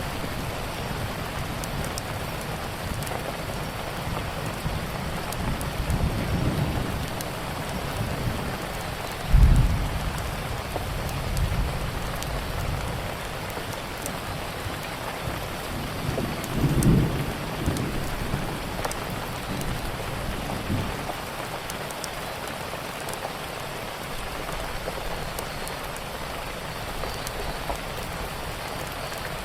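Steady heavy rain with several low rolls of thunder, the loudest coming suddenly about nine seconds in and another near seventeen seconds. Scattered small crackles of a wood fire sound over the rain.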